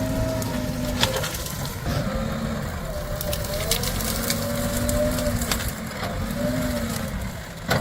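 JCB 3DX Plus backhoe loader working, its diesel engine running with a hum that falls and rises in pitch as the load changes. A sharp knock comes about a second in and another near the end, with a few lighter clicks between.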